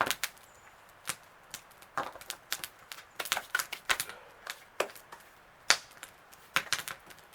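Campfire wood crackling, with irregular sharp pops and snaps, several a second.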